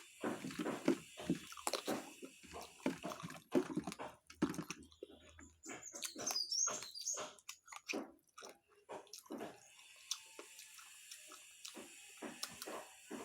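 A person chewing and eating pigeon curry with rice: irregular wet smacks, bites and lip sounds.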